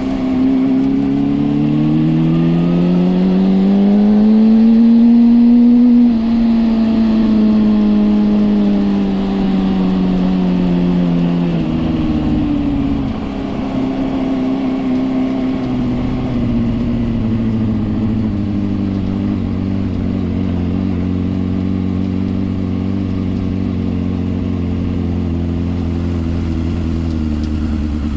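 Suzuki GSR 400's inline-four engine through a Yoshimura exhaust, revs rising for about five seconds under acceleration, then slowly easing off. The revs drop about twelve seconds in, and the engine runs on at a lower, steady pitch.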